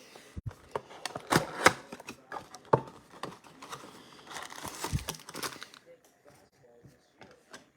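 Crinkling plastic wrap and small clicks of card packaging being handled and opened, in a quick irregular patter that grows busier around the middle and thins out to faint ticks near the end.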